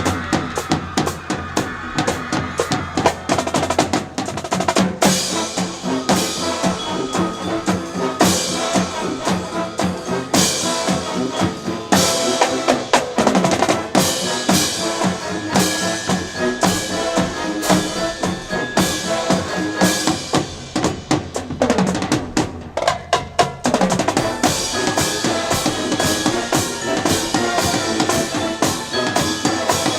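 A high school wind band playing, with a drum kit, bass drum and snare beating a steady, driving rhythm under the wind instruments.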